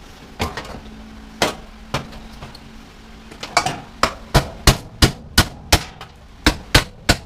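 Hammer blows on metal parts while an old washer/dryer is broken apart for scrap. A few spaced strikes come first, then from about halfway through a quicker run of strikes, about three a second.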